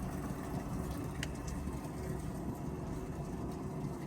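Fishing boat's engine running steadily at low speed, a low rumble, with a short high chirp about a second in.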